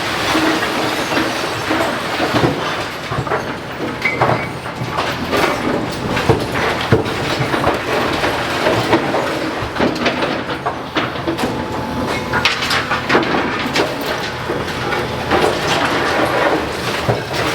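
Demolition machinery breaking up a building: a continuous rumble with many irregular clattering knocks of masonry and rubble.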